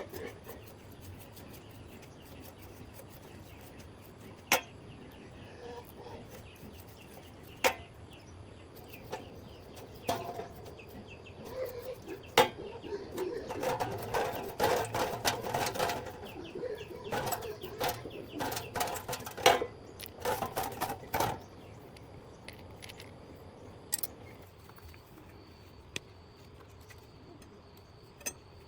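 A series of sharp knocks and clatter: single knocks every few seconds, then a busy run of clattering through the middle before it settles again.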